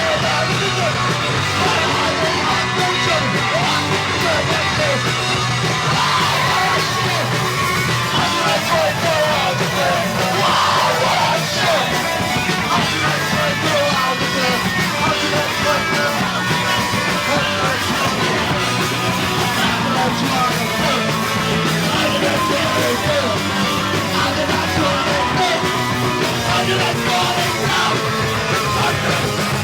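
Live punk band playing loud and continuously, with distorted guitars, bass and drums and a singer yelling over them.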